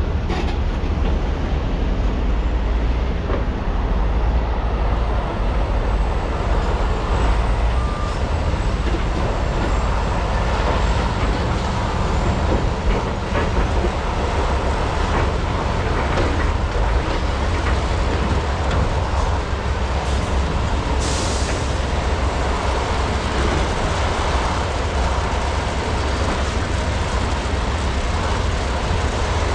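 Large hydraulic excavators working together on truck loading, their diesel engines running under load with hydraulic noise and a few faint knocks. A short burst of hiss comes about 21 seconds in.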